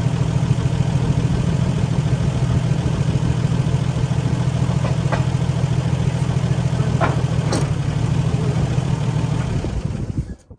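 Old haystacker's engine idling steadily, with a few light knocks about halfway through, then dying away near the end.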